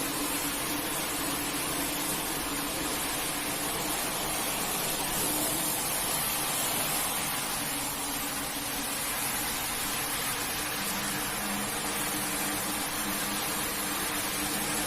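A motor-driven carpet-cleaning machine running steadily, with a hum under the hiss of water washing over the carpet.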